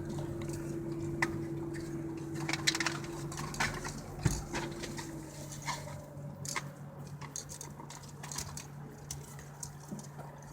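Car cabin while driving slowly: a steady low engine hum with a second tone that fades out about halfway through, and scattered small clicks and knocks.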